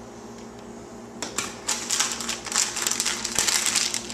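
A plastic snack wrapper being handled and crinkled, a dense run of fast, irregular crackles that starts about a second in, over a steady low hum.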